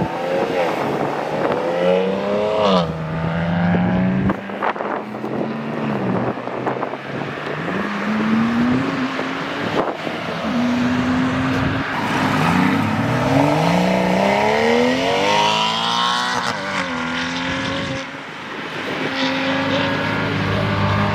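Performance car engines revving hard as cars accelerate away, the pitch climbing and dropping back with each gear change, several times over.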